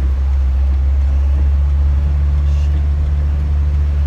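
Box truck running down the road: a loud, steady low engine and road drone, with a slightly higher hum joining about one and a half seconds in.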